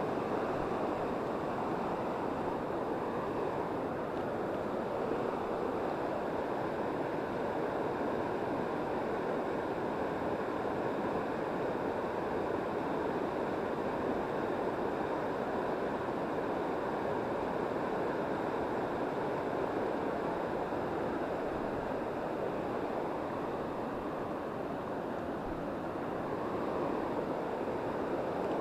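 Mountain river running high after rain, a steady even rush of water.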